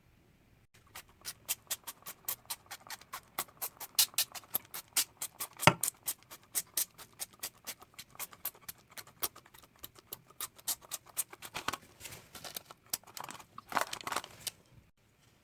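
Rapid, even tapping of a kitchen utensil against a bowl or board, about six strokes a second, with one harder knock about halfway through.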